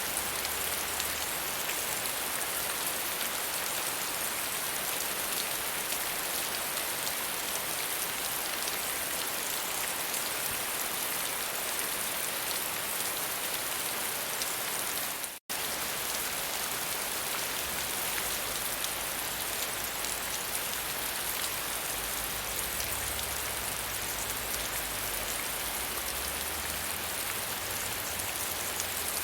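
Steady rain falling, a dense even patter of raindrops. It cuts out to silence for a split second about halfway through, then carries on.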